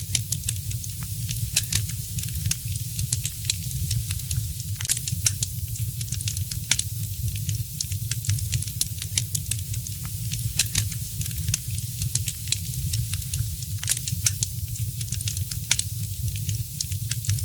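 Wood fire crackling, with irregular sharp pops and snaps, a few louder ones, over a steady low rumble.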